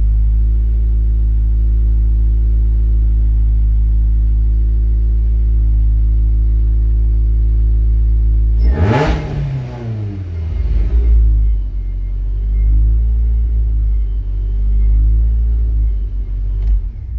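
Supercharged four-cylinder engine of a VW Scirocco, bored out to 2 litres, idling steadily and loud. About nine seconds in, with the ignition key being turned, the note breaks abruptly and shifts pitch, then runs unevenly before it stops right at the end.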